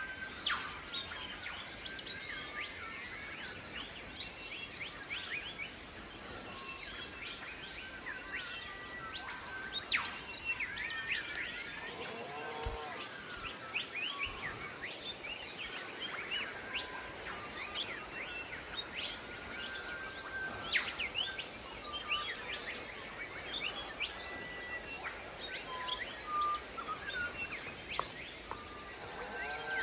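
Birds chirping and calling, a dense mix of short chirps and whistles over a steady background hiss.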